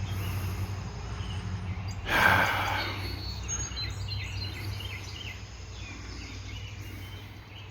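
Outdoor ambience: birds chirping over a steady low hum, with a brief loud rush of noise about two seconds in.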